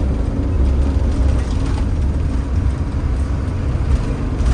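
Camper bus driving along, heard from inside the cab: a steady low engine and road rumble.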